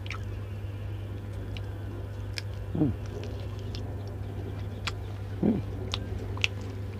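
Eating sounds of someone chewing in silence: a few sharp mouth clicks and smacks over a steady low hum, with two short falling sounds, a little before the middle and again after it.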